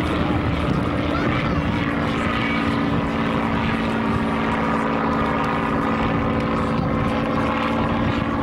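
Propeller-driven aircraft engine droning steadily overhead, its pitch dropping slightly about two seconds in.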